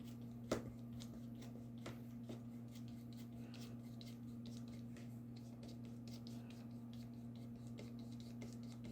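Faint scratchy strokes of a small paintbrush dabbing little crosses of gouache onto watercolour paper, over a steady low hum. One sharper tap about half a second in.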